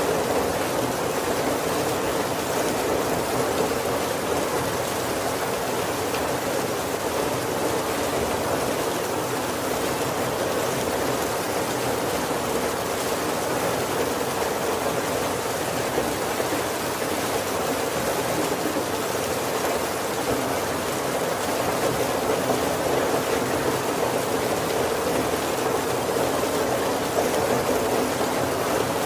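Heavy rain falling steadily on the roof of a wooden carriage: a dense, even wash of rain that holds the same level throughout.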